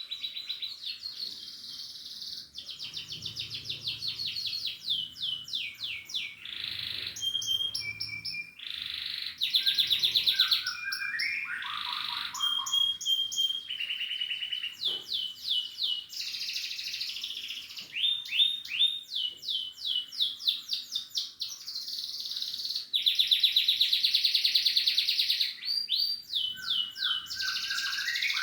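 Domestic canary singing a long, nearly unbroken song of fast trills and rolls, with runs of repeated notes, some of them falling in pitch.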